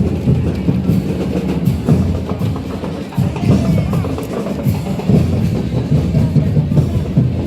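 Marching band percussion: bass drums and snare drums playing a steady, driving rhythm.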